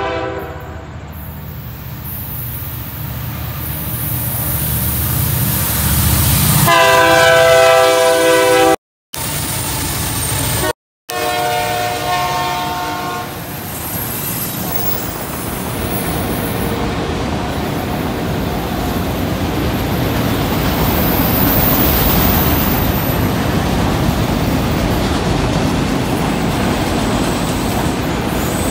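Freight train passing: the diesel locomotive's horn sounds a multi-note chord about 7 seconds in and again around 11 seconds, over engine rumble that grows as the locomotives come by. From about 14 seconds on there is the steady rolling noise of autorack cars going past. The sound cuts out for a moment twice, near 9 and 11 seconds.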